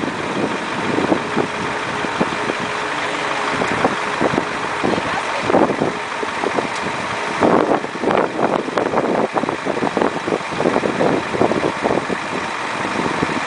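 Vehicle engine idling under a steady rushing noise, with irregular buffeting pulses that grow busier in the second half.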